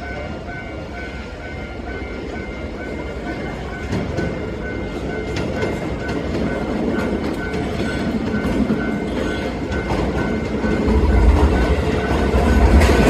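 Keisei electric commuter train rolling slowly through station pointwork: a steady rumble with wheels clacking over rail joints and switches, growing louder, with the low rumble swelling near the end. A faint high beep repeats in the background.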